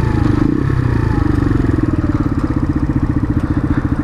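Motorcycle engine idling, a steady rapid pulse.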